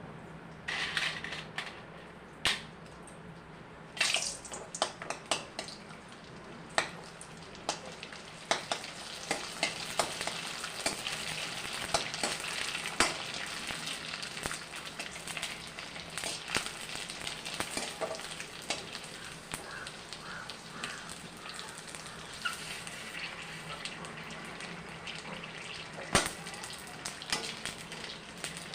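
Food frying in hot oil, a steady sizzle that builds about a third of the way in, with sharp clicks and knocks of cookware now and then.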